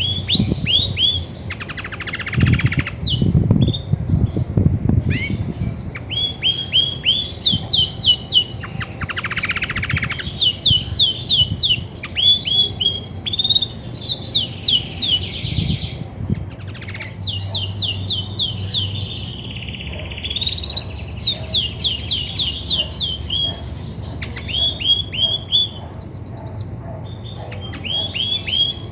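Grey-and-white female Belgian canary singing continuously in fast runs of repeated down-slurred chirps, broken by a couple of buzzy rolls; such a hen sings a lot when she is ready to brood. A low rustle sounds from about two to five seconds in.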